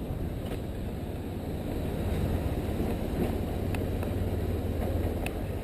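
BMW R1150RT motorcycle's boxer-twin engine running steadily at low speed, a continuous low rumble with some wind on the microphone.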